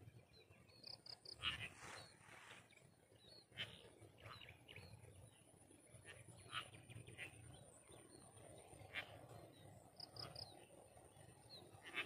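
Faint field ambience with scattered short bird chirps, twice a quick three-note peep, over a thin steady high tone.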